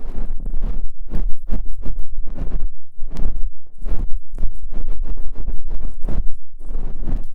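Simulated ear cleaning on a microphone: an ear pick scraping and rubbing close to the mic, making irregular scratchy strokes about two or three times a second, each with a deep muffled thump under the scratch.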